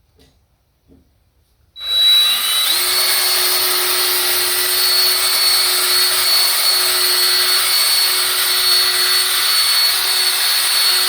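Small handheld power tool, drill-like, switched on about two seconds in: its pitch rises briefly as it spins up, then it runs loud and steady with a high whine.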